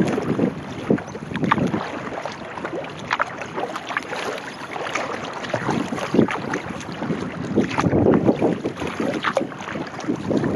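Kayak paddle strokes splashing and dripping in choppy water at a steady pace, with wind buffeting the microphone.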